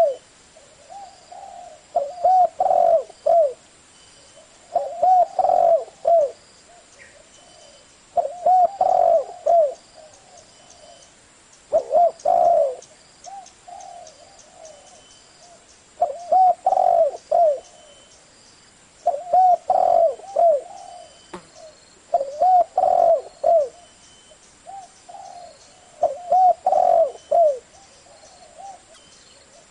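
Spotted dove cooing in the deep 'thổ' voice that Vietnamese dove keepers prize, a lure call for wild doves. Each short phrase of a few coos comes round about every three seconds.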